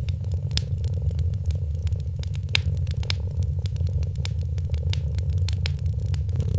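Wood fire crackling, with irregular sharp pops and snaps, over a steady low purr from a cat.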